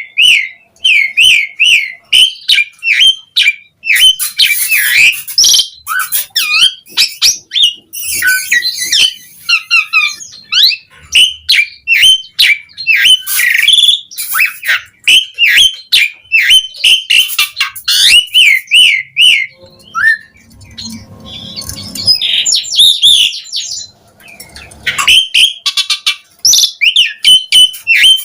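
Asian pied starling singing loudly, a fast run of short repeated whistled notes mixed with harsh, squawky chatter, breaking off briefly about two-thirds of the way through before starting again.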